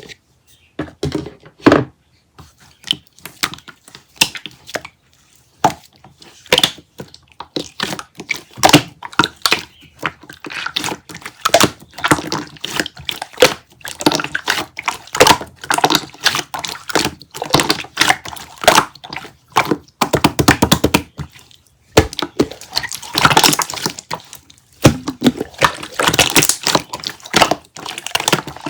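Dense, irregular crackling and clicking, with sharp taps and crunches close to the microphone and a few brief pauses.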